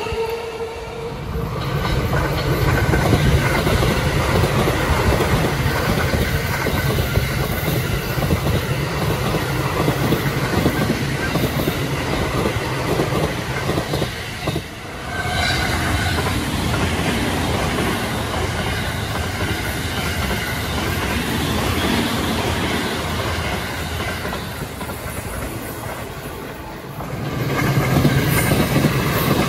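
JR East E217 series electric commuter trains running on the rails: a steady, loud rumble of moving cars, dipping briefly about halfway and again shortly before the end.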